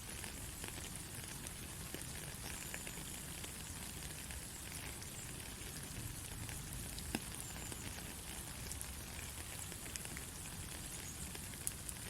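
Steady soft rain falling, a continuous patter with scattered individual drops ticking, one sharper drop about seven seconds in.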